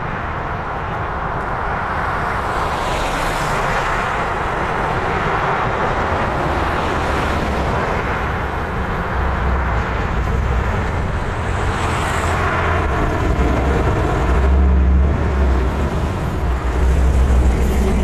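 A car running on the move: steady engine and road roar with a deep rumble that grows louder over the last few seconds.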